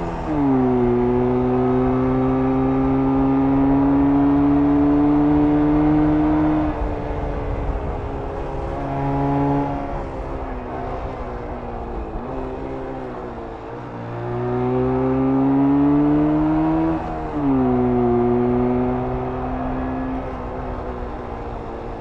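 1994 Jawa 350 type 638 motorcycle's two-stroke parallel-twin engine, stock exhaust, pulling under throttle with the revs climbing steadily. The pitch drops sharply at gear changes just after the start and again about three-quarters through. In the middle stretch the rider eases off, with a short blip of throttle, before accelerating again.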